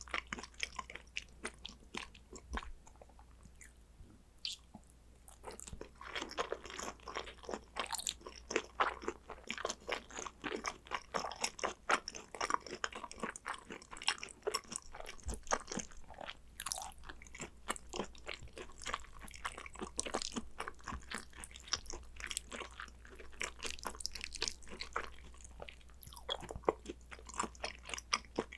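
Close-miked chewing of Korean beef yukhoe (seasoned raw beef): rapid wet, sticky smacks and small crunches, quieter for a few seconds near the start and then dense and continuous.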